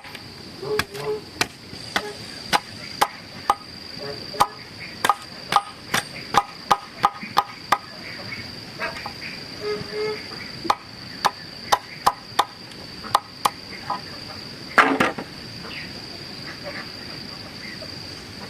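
Repeated sharp strikes of a hand tool, chopping or driving, about two a second, which stop after about fourteen seconds. A louder rough burst follows near the end. A steady high insect buzz runs throughout.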